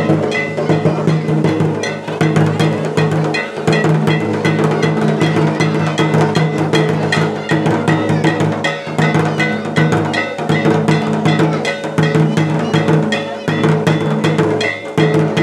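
Drums beaten loudly in a fast, dense rhythm, over a steady held tone.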